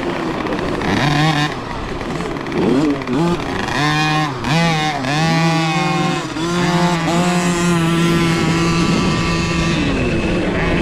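Small dirt bikes racing: their motors rev up and ease off, the pitch rising and falling several times, then holding steadier under throttle in the second half.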